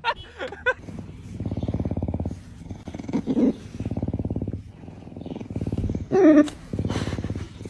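A cat purring loudly in a rapid rattling pulse, rising and falling with its breaths in stretches of about a second. Two short voiced sounds cut in, about a third of the way in and again near the end.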